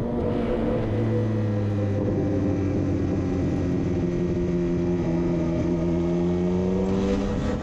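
Motorcycle engine running steadily, its pitch rising slowly as the bike gently gains speed.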